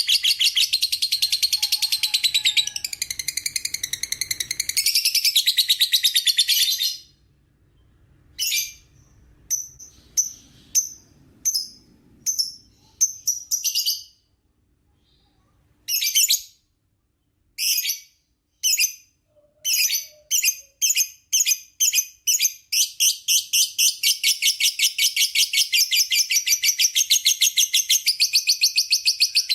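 Lovebird singing its long 'ngekek' chatter: a fast, high-pitched trill of rapid repeated notes. It breaks off after about seven seconds into short separate bursts with pauses, then quickens back into a continuous trill for the last third.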